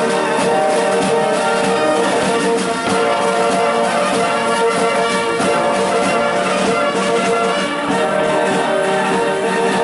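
Military band playing a march arrangement outdoors, led by sustained brass chords from trumpets and trombones.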